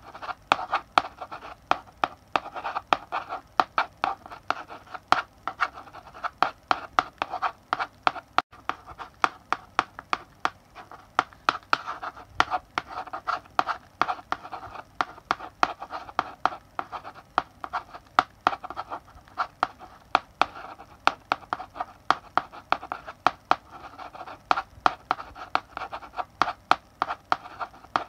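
Chalk writing on a blackboard: quick, irregular taps and short scratching strokes of the chalk, several a second, with no pause.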